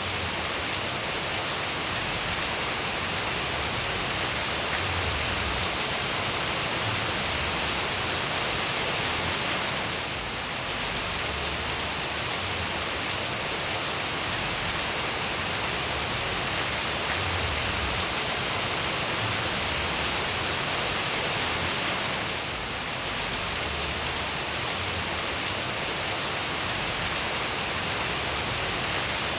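Steady, even rain falling, a continuous hiss of drops, with the level dipping briefly twice.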